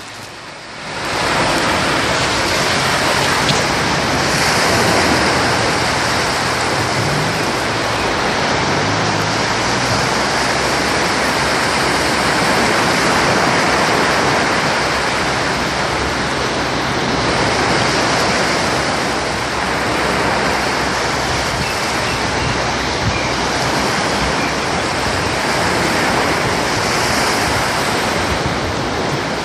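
Sea surf washing onto a beach, a steady rushing of breaking waves that swells and eases a little over time.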